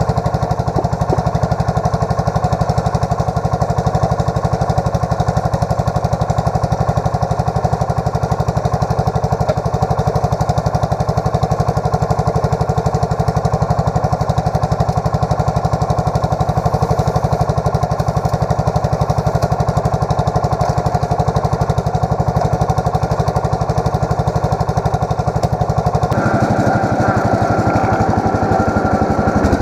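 Allis Chalmers 716H garden tractor engine running steadily with a rapid, even pulse, back in running order. Near the end the engine note changes and rises.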